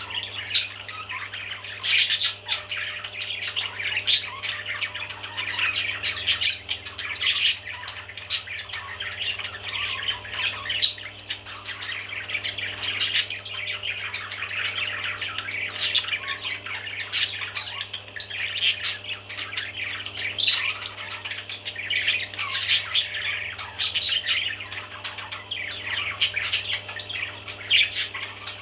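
Baby parrots squawking and chirping without pause, a dense chatter broken by frequent sharp, louder calls.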